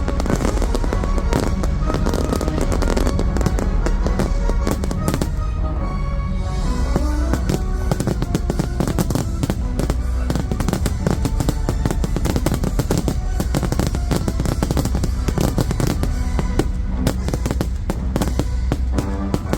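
A fireworks display going off in quick succession, dense bangs and crackling, over a loud music soundtrack.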